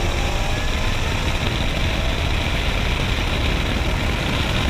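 Whipple-supercharged Hemi V8 of a 2013 Dodge Challenger R/T with longtube headers, rumbling steadily near idle as the car coasts off the throttle. Wind and road noise rush over the microphone.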